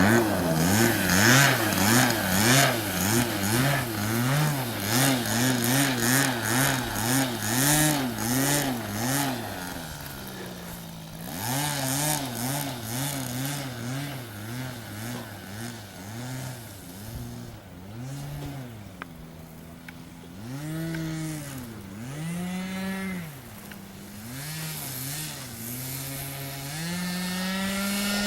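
Radio-controlled model airplane's small engine in flight, its pitch swooping up and down over and over as it flies by. It grows quieter midway, then louder with a steady note near the end.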